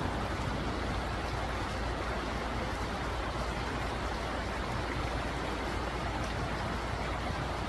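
Steady rushing of a flowing stream, an even, unbroken wash of water noise.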